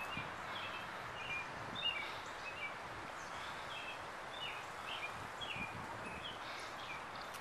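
Birds chirping in short, scattered notes over a steady outdoor background hiss.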